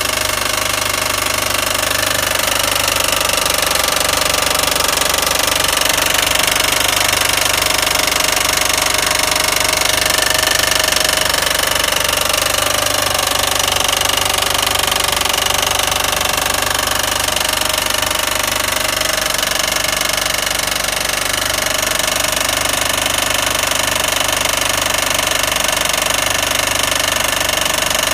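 2007 Mitsubishi Eclipse GS 2.4-litre four-cylinder engine running steadily with a fast, even rattling knock, a hideous sound whose cause the owner cannot find. The alternator has tested fine, and the timing belt is a little loose.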